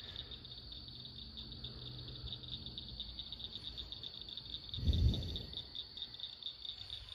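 Steady high-pitched, rapidly pulsing chorus of night-calling animals, with one short low rumble about five seconds in.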